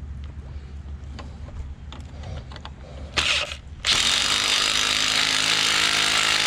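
Power drill-driver driving a quarter-inch stainless steel Tapcon masonry screw: a short spin about three seconds in, then a loud, steady run from about four seconds in. Before that there is only a low rumble and a few small clicks.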